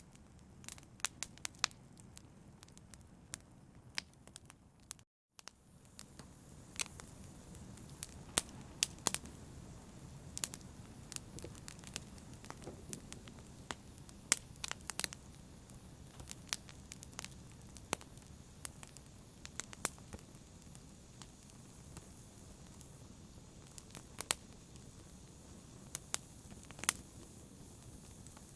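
Wood fire crackling, with irregular sharp pops and snaps over a low steady rumble of flames. The sound cuts out for a split second about five seconds in.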